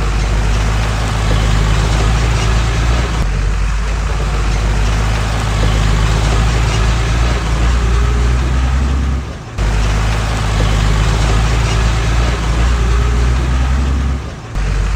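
Diesel engine of heavy earthmoving machinery running steadily with a deep, even drone. The sound drops out briefly twice, past the middle and near the end.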